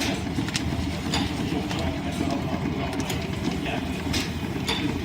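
Line-shaft-driven wood lathe and its shafting running with a steady low rumble, broken by irregular short clicks and taps.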